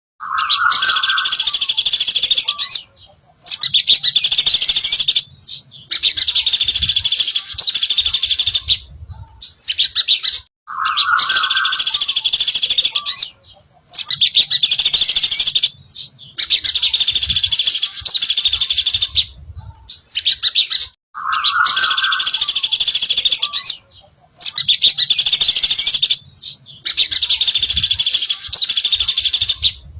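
Sogon bird of the 'dasi trotol' (speckled-tie) type singing: loud, dense high-pitched phrases of about two to three seconds, repeated with short gaps, every few phrases opening with a lower note.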